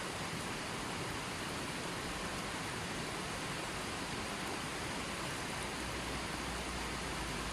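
Running water flowing steadily, an even continuous rush with no breaks.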